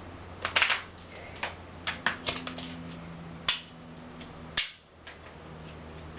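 A deck of playing cards being handled: a string of sharp snaps and taps of the cards, the busiest cluster a little after half a second in, with single ones spread through the rest.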